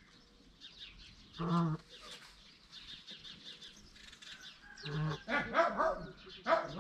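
Short, low bird calls, one about a second and a half in and several in quick succession around the five-to-six-second mark, over continuous high twittering of small birds.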